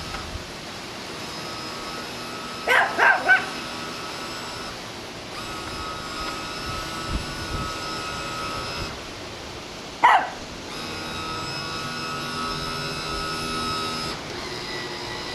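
Chihuahua barking three times in quick succession about three seconds in and once more about ten seconds in. Under the barks runs the steady whine of the toy RC boat's small electric motors, which drops out and comes back a few times.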